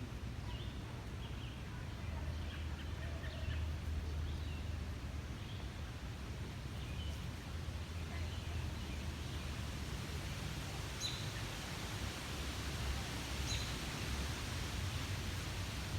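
Small songbirds chirping: many short chirps in the first half, then two sharper, higher calls later on, over a steady low rumble.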